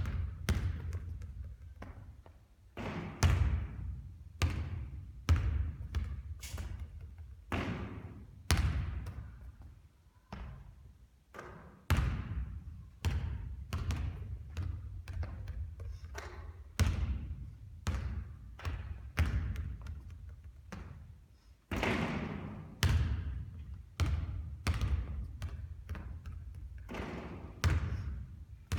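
A basketball bouncing on a hard court during shooting practice: many separate thuds at irregular spacing, some in quick runs, each with a short ringing tail.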